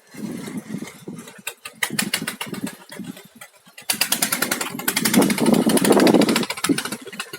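Small boat's engine running with a rapid, steady chugging, over a rushing noise; it fades briefly about three and a half seconds in, then comes back strongly.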